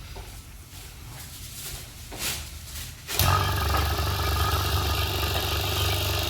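A machine switches on about three seconds in, after a few faint clicks, and runs steadily with a low hum and a hiss.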